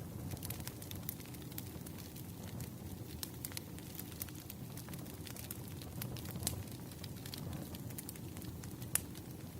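Wood fire crackling in a fireplace: irregular sharp pops and snaps, a few louder ones, over a steady low rumble of the burning fire.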